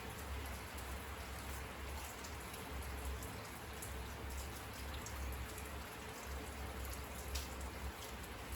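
Steady rain falling, with individual drops ticking sharply close by and a low rumble underneath.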